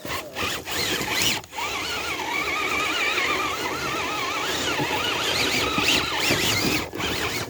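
Whine of a 1/10-scale RC crawler's electric motor and gear train, wavering up and down in pitch as the throttle is worked under load climbing a snowy hill, over a steady hiss of tires churning snow.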